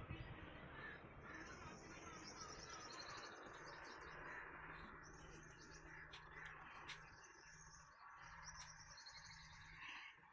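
Faint birds chirping over a low steady hum that drops out a few times, with a few sharp clicks in the middle.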